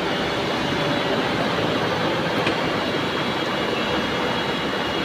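CNC lathe and workshop machinery running steadily: a constant mechanical noise with a faint high whine.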